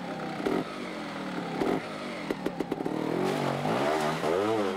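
Two-stroke trials motorcycle engine blipped several times in quick succession, its pitch rising and falling with each burst of throttle, with scattered knocks and clatter from the bike before it.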